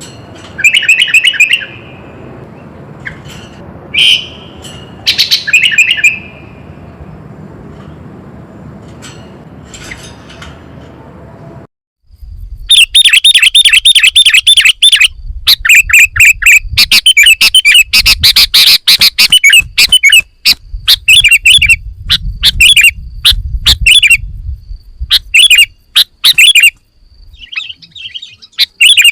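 Sooty-headed bulbul (kutilang) singing. At first a few short chirping phrases come over a steady low background rumble; about 12 seconds in, the sound cuts abruptly to a loud, dense run of rapid repeated chirps.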